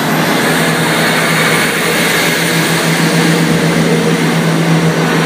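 Class 158 diesel multiple unit's engine running with a steady low drone and even hum.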